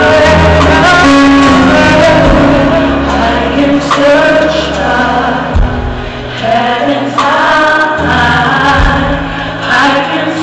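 Gospel music: a choir of men's and women's voices singing over an instrumental accompaniment with sustained bass notes.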